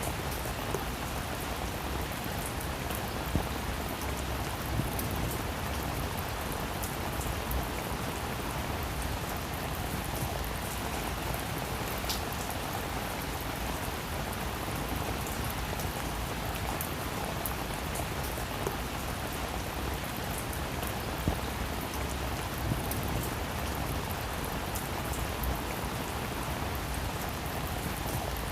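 Steady rain falling on a roof, an even hiss with scattered louder drop ticks.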